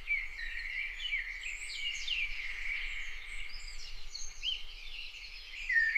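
Birdsong: several birds chirping and calling at once, a continuous chorus of short whistled notes that rise and fall.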